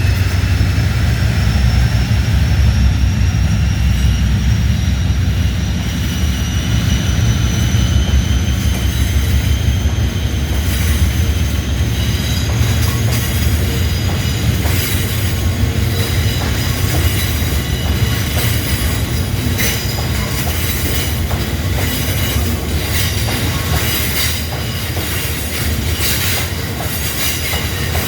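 A train running past: a heavy low rumble under a high whine that slowly rises in pitch, with sharp wheel clicks over rail joints coming thicker from about ten seconds in.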